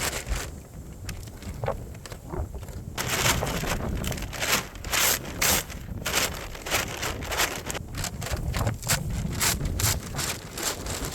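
Footsteps crunching through deep snow, about two steps a second from about three seconds in, with blizzard wind buffeting the microphone.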